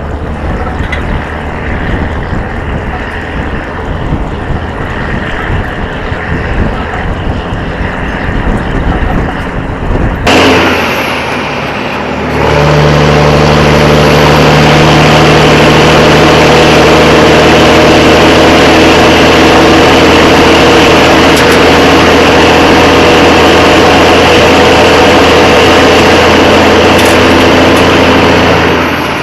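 A low rumble with wind noise, changing abruptly about ten seconds in; from about twelve seconds a heavy diesel engine drones loudly at a steady speed.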